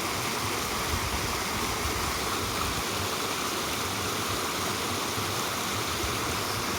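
A mountain stream running steadily, a constant rush of flowing water.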